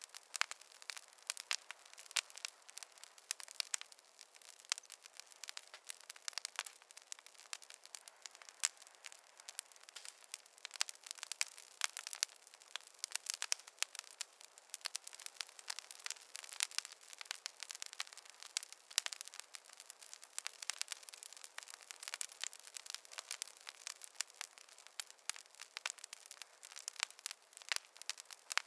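Burning wood logs in a fireplace crackling, with dense, irregular pops and snaps over a soft hiss and no low rumble.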